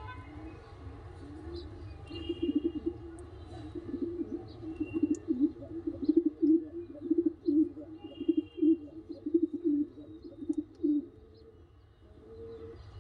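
Pigeon cooing: a long run of low, pulsing coos that starts about two seconds in and stops about eleven seconds in.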